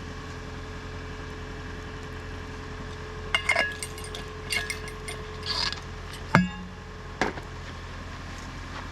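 Several separate metal clinks and knocks of cookware and utensils being handled on a compact fire grill, the sharpest a little past the middle, over a faint steady hum.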